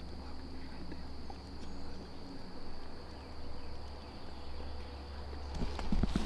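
Steady high-pitched insect drone over a low rumble of wind on the microphone, with faint rustling near the end.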